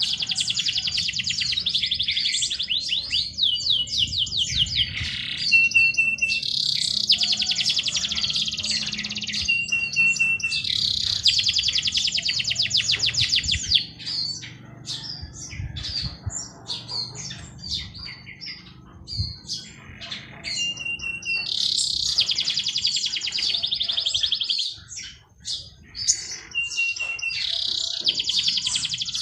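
A songbird singing loud, rapid trilled phrases about three seconds long, five times, with a short steady whistled note and scattered chirps between them, over a faint low rumble.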